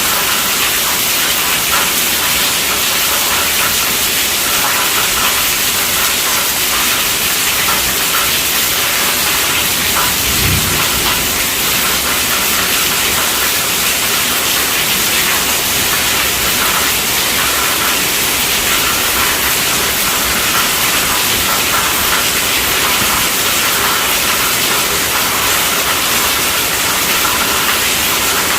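Steady rainfall, a dense even hiss of rain with no let-up. There is a brief low thud about ten seconds in.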